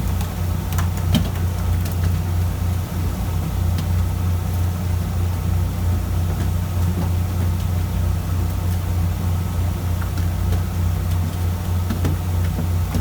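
Fishing boat's engine running steadily, a constant low drone, with a few faint knocks about a second in.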